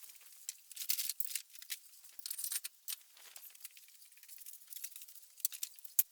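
Broom sweeping a floor: irregular scratchy swishes, with one sharp click just before the end.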